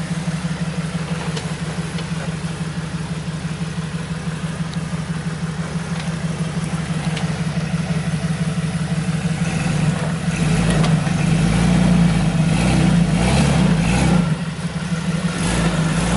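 Jeep Wrangler YJ engine running at low revs as the Jeep crawls over a dirt mound. About ten seconds in it gets louder and deeper, then drops briefly near the end.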